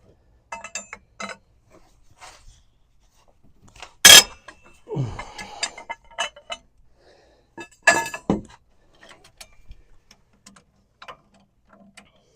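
Metal tools clanking and rattling as they are handled, with a loud clank about four seconds in followed by a short scrape, and another loud clank about eight seconds in.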